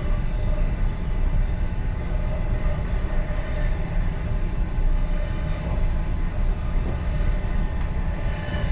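Passenger train running steadily along the line, an even rumble of wheels on rail heard from inside the last carriage, with a faint steady tone in it.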